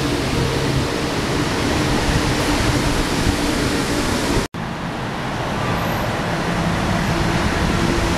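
Metro-North M8 electric multiple-unit train running past at a station platform: a steady loud wheel-and-running-gear noise with low hums from the traction equipment. The sound drops out for an instant about halfway through, then the same steady train noise resumes.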